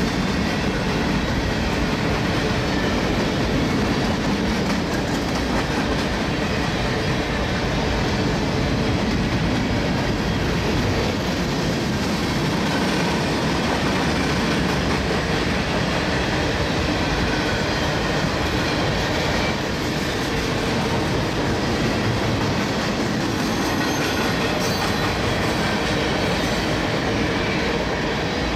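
Union Pacific freight cars, boxcars and autoracks, rolling past close by: a steady, continuous rumble of steel wheels on the rails.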